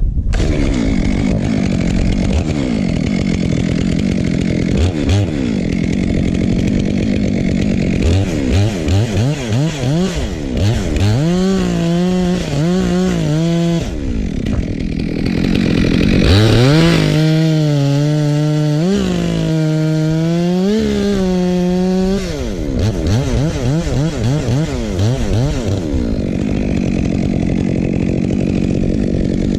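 Two-stroke Stihl chainsaw revving up and down repeatedly and cutting oak. Its pitch is held high through two longer cuts near the middle, dipping slightly under load, then drops back to quicker throttle changes.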